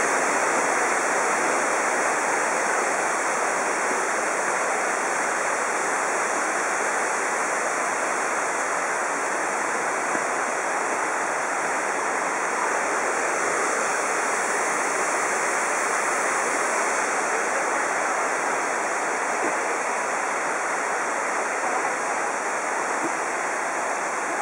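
Mountain stream rushing, a steady even noise with no let-up.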